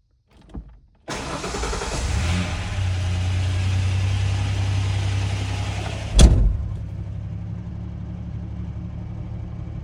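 1992 Ford Ranger engine starting about a second in and running, heard from inside the cab. A sharp thump about six seconds in is followed by a quieter, steady idle. The owner is listening for a suspected valve lifter tick.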